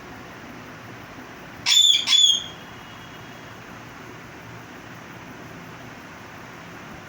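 A parrot gives two short, loud, high-pitched whistling calls in quick succession, about two seconds in, over a steady background hiss.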